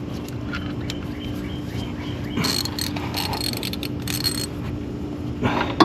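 Hand ratchet with a 15 mm shallow socket clicking in three short spells while working the motor mount bracket bolts loose, over a steady low hum, with one sharper click near the end.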